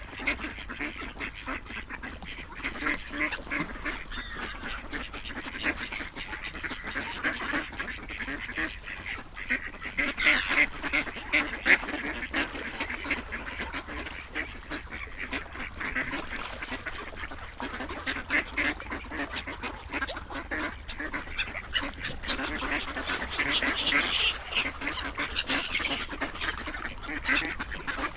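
A group of ducks quacking, with many short calls overlapping in a continuous chatter.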